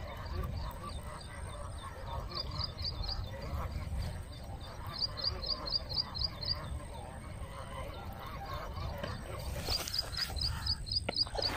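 A bird calling in runs of five to seven quick, high chirps, about four a second, each run a few seconds after the last, over a steady low rumble.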